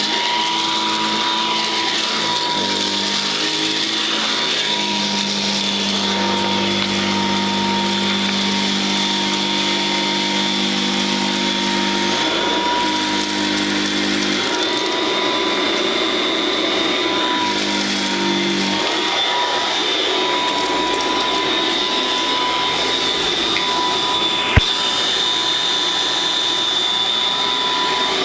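Royal Model 608 upright vacuum cleaner running steadily with a high motor whine, picking up birdseed. A lower hum under the whine changes pitch several times, and there is one sharp click about three-quarters of the way through.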